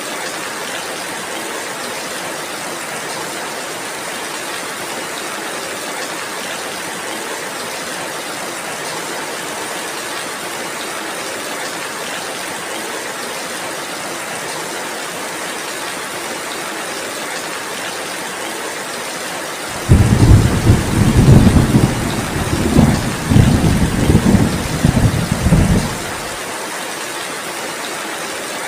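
Steady heavy rain. About twenty seconds in, a loud, low rolling rumble of thunder starts suddenly, swells in several waves for around six seconds, then cuts off.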